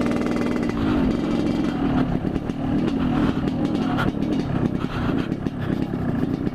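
Yamaha RX-King's two-stroke single-cylinder engine running through its loud exhaust at low speed. The engine note falls about half a second in as the throttle comes off, then it runs on at a fairly even pace.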